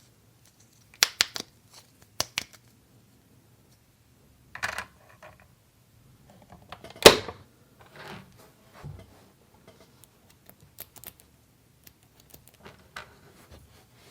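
Small plastic toy kitchen pieces being handled and set down: a quick cluster of sharp clicks about a second in, a clatter a little later, one loud knock about halfway through, then scattered light taps.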